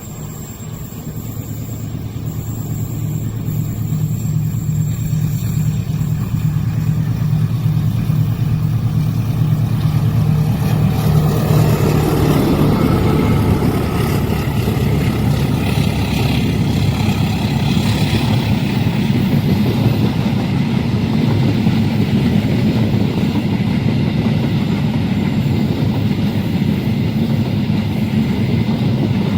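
Train passing: a diesel locomotive's steady engine hum grows louder over the first few seconds, then from about twelve seconds in the even rumble of the cars rolling past takes over and holds steady.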